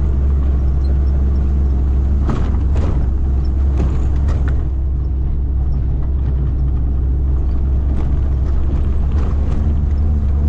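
Steady low engine and road rumble of a vehicle being driven, heard from inside, with a few short knocks and rattles around two to four seconds in.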